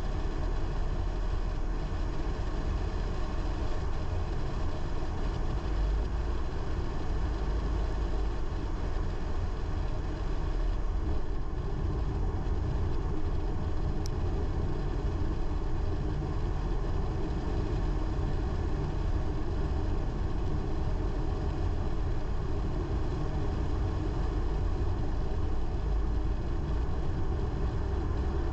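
Car driving along a road: steady engine and road noise, strongest in the low rumble, without change.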